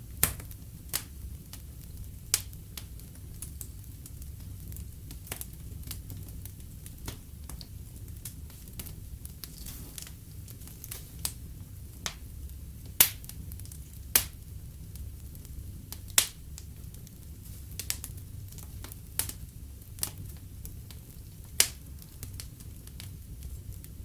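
Wood fire burning in a fireplace, crackling with irregular sharp pops and about half a dozen louder snaps, over a low steady rumble.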